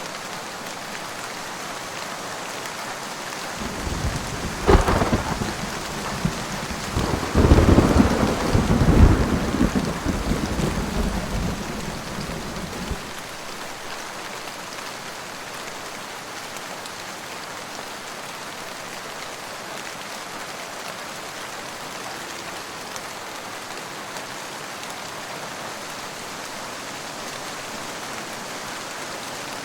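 Steady rain with a thunderclap: a sharp crack about five seconds in, then a loud rolling rumble that fades out by about thirteen seconds. The rain goes on at an even level afterwards.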